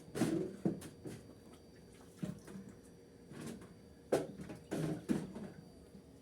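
A series of irregular clicks and knocks, loudest at the very start and again about four seconds in.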